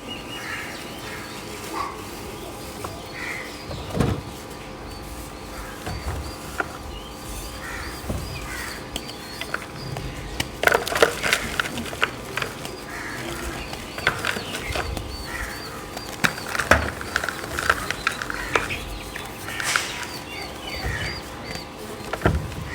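Chunks of soft chalk being crushed and crumbling: irregular crunching and crackling with a few duller thuds, busiest about ten to twelve seconds in. A faint steady hum runs underneath.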